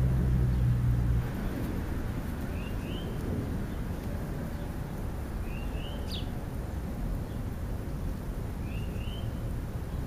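Low steady engine hum that stops about a second in, over a steady outdoor noise bed. Three short rising two-note bird chirps come a few seconds apart.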